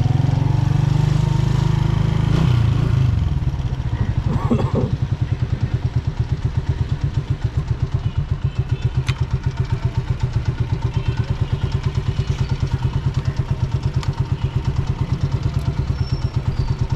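Honda CG125's single-cylinder four-stroke engine running under throttle for about the first three seconds, then settling to a steady idle with evenly spaced putts. A brief higher-pitched wavering sound comes about four seconds in.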